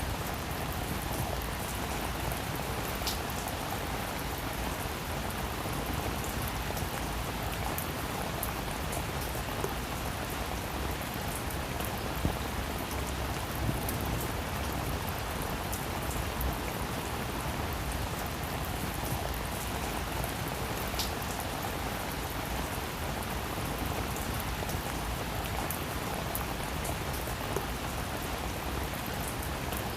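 Heavy rain falling steadily, a dense even hiss of rain with scattered individual drop ticks and a few sharper drop hits.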